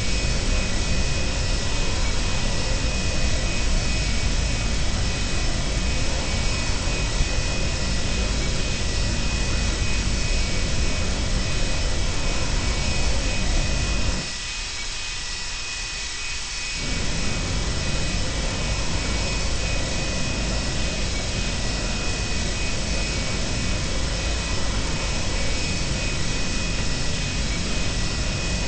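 Boeing 737-200's Pratt & Whitney JT8D jet engines heard from inside the cabin: a loud steady rush with a thin high whine on top. About halfway through, the sound drops sharply for about two and a half seconds, then comes back at the same level.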